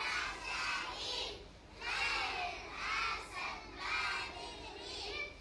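A group of children singing together in high voices, in short phrases with brief breaks between them.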